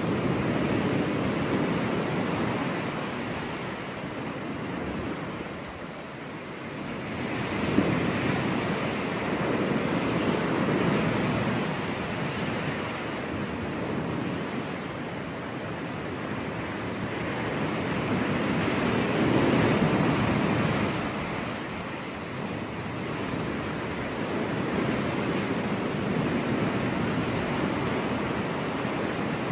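Ocean surf washing onto a beach, waves swelling and breaking in slow surges every several seconds, with a single faint click about eight seconds in.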